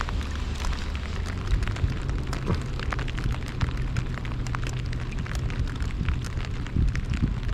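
Rain falling on and around a kayak: many small, sharp raindrop hits close to the microphone, over a steady low rumble.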